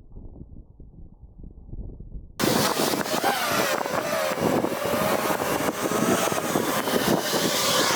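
A faint muffled rumble, then about two and a half seconds in an abrupt switch to the loud whine of a 5-inch FPV quadcopter's brushless motors and propellers, its pitch wavering up and down with throttle, under heavy wind noise.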